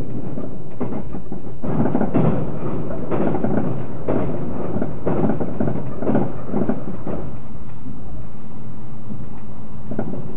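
Running noise of a 381-series tilting electric express heard inside its rear car: a steady low rumble of wheels on rail. For about the first seven seconds it comes in heavier, uneven rumbling surges, fitting the steel girder bridge the train is just leaving. After that it settles to a quieter, smoother rumble with a steady low hum.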